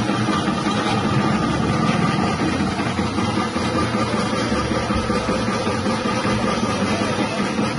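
Electric chip-slicing machine's 180-watt motor running steadily with an even, constant hum.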